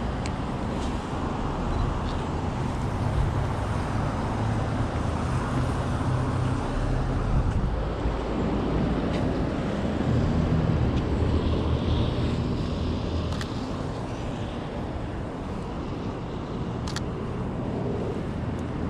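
City street traffic: the steady rumble of vehicle engines passing, swelling and easing off, with a few sharp clicks on top.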